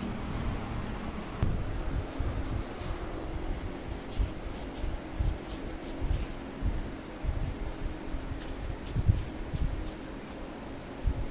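Hands massaging a bare upper back: skin rubbing and pressing, with irregular dull thumps of blows and pats.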